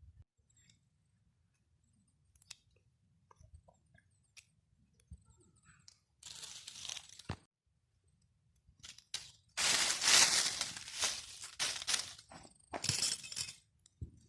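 Dry twigs and leaves crunching and rustling in three spells, the middle one longest and loudest, with faint scattered ticks in between.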